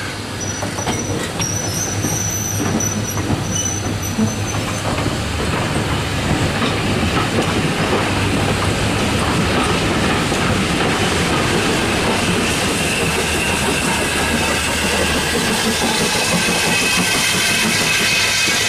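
Passenger coaches and a small industrial saddle-tank steam locomotive rolling slowly past, wheels clacking over the rail joints. A faint squeal of wheel flanges comes in during the second half, and the sound grows steadily louder as the train draws level.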